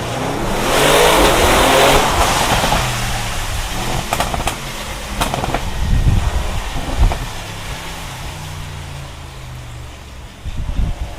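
Audi RS6 C7 Performance's twin-turbo 4.0 V8 accelerating hard, its exhaust note rising in pitch over the first two or three seconds. A few sharp exhaust cracks follow between about four and seven seconds in, and the engine then settles to a steady low drone, with a short loud burst near the end.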